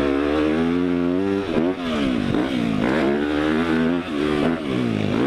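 Motocross dirt bike engine revving hard on and off the throttle, its pitch climbing and then dropping sharply several times as the rider works through corners and jumps.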